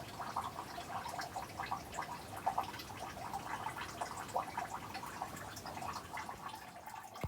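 Water leaking into a boat's hull through a broken propeller shaft seal: an irregular run of small drips and trickles.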